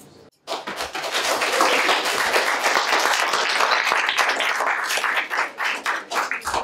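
Audience applauding. It starts suddenly about half a second in and thins to scattered individual claps near the end.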